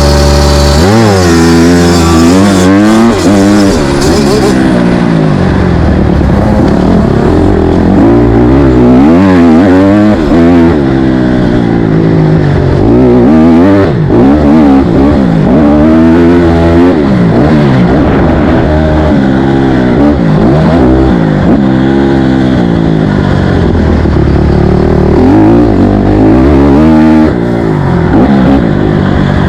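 Dirt bike engine, loud and close, revving hard. Its pitch climbs and drops over and over as it accelerates, shifts and backs off.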